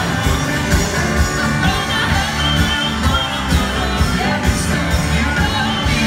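Live band playing a country-rock song with singing, loud and steady with a regular beat.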